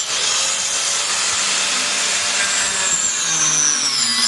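Power tool working on the wall build, a steady harsh noise with a high motor whine that drops in pitch about three seconds in, as if under load, and then holds.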